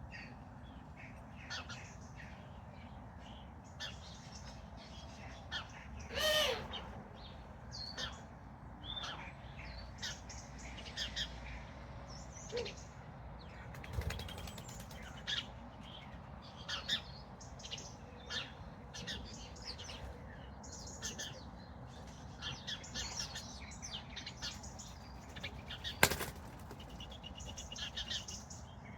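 Wild garden birds chirping, with many short high chirps throughout and one louder, harsher call with a falling pitch about six seconds in. A single sharp click near the end, over a low steady background rumble.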